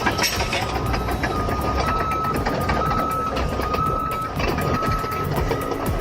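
Heavy construction machine's backup alarm beeping about once a second over the rumble of its diesel engine, with short clanking clicks.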